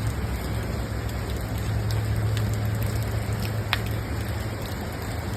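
Steady rain falling, an even hiss with a few faint drop ticks, over a low steady hum.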